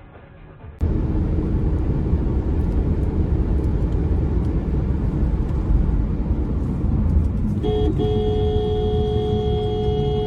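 Loud, steady rumble of a moving vehicle's road and engine noise. Near the end a car horn sounds with a short toot and is then held down steadily.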